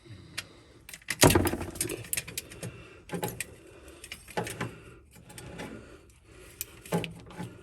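Irregular clanks and scrapes from working at a stuck spin-on oil filter to loosen it. The loudest clank comes about a second in, with a few more after it.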